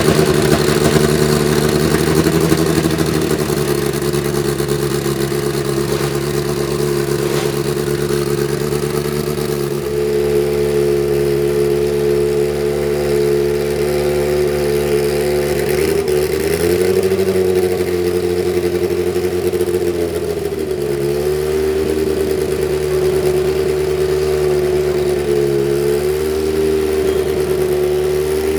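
Arrows A10's Megatron 1.5-litre turbocharged four-cylinder Formula 1 engine running, held at steady revs, with a few brief dips and rises in pitch around the middle and near the end.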